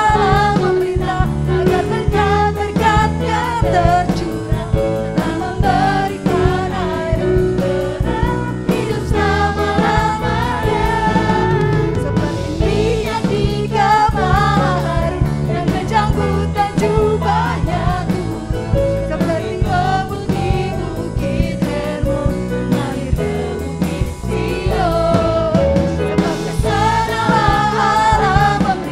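A worship band playing a Christian worship song, with sung vocals over drums and bass.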